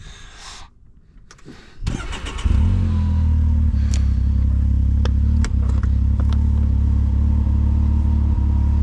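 A 4x4's engine starts about two seconds in, then runs steadily at idle with a deep, even sound. A few light clicks sound over it.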